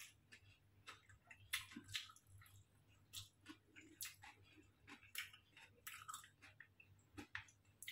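Faint chewing of a mouthful of stir-fried noodles: soft, irregular smacks and clicks from the mouth, over a faint low steady hum.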